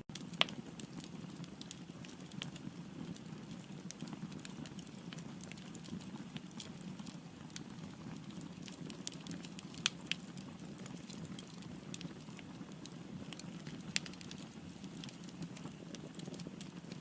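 Firewood burning in a fireplace: a steady low rush of flame with frequent sharp crackles and pops, a few louder pops standing out about half a second in, around ten seconds and around fourteen seconds.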